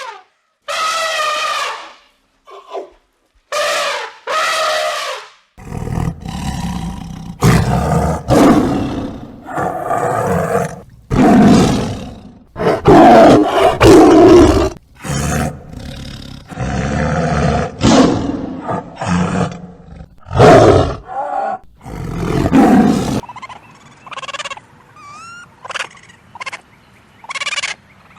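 Wild animal calls: a few short, pitched calls, then from about six seconds in a long run of loud, deep roaring calls, then thinner, higher calls with sliding pitch near the end.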